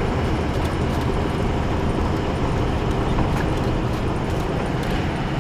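Truck driving on the road: steady engine rumble and road noise heard from inside the cab.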